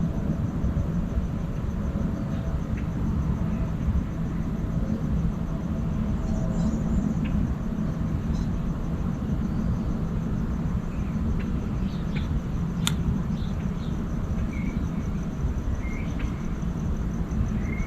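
Outdoor field recording of a steady low rumble, with faint, short bird chirps scattered through it, more of them in the second half, and one sharp click about 13 seconds in.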